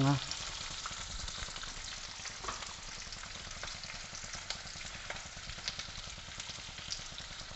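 Diced onion and green capsicum frying in oil in a nonstick wok: a steady sizzle with scattered small pops and crackles.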